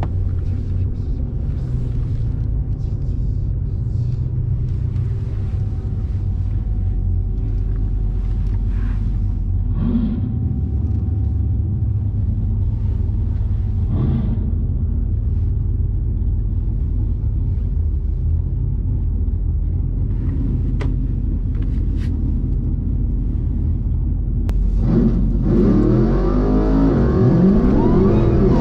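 Dodge SRT Hellcat Redeye's supercharged 6.2-litre HEMI V8 idling with a steady deep rumble, heard from inside the cabin while staged at the drag strip line. About 25 seconds in, the revs start rising and falling sharply as the car is brought up for the launch.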